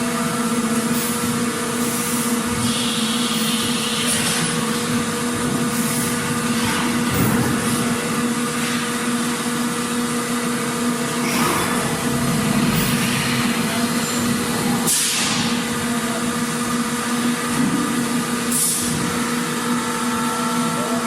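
Factory floor ambience: machinery running with a steady hum under a constant wash of noise, with short hisses and knocks now and then.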